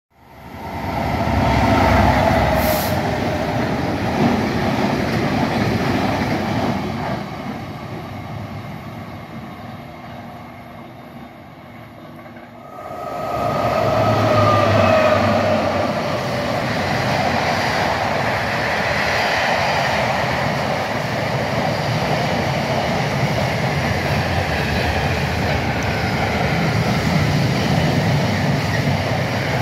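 Trains passing through a station at speed. A loud rush with a falling whine comes in the first seconds and again about 13 seconds in, easing off in between. After that comes the steady rumble and clatter of a container freight train's wagons rolling past.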